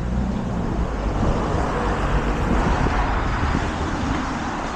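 Steady rushing noise of strong wind on the microphone, mixed with the rumble of road traffic.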